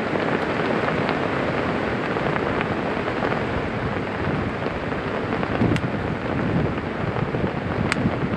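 Strong wind buffeting the microphone with rain, a steady rushing noise, broken by a few faint sharp ticks in the second half.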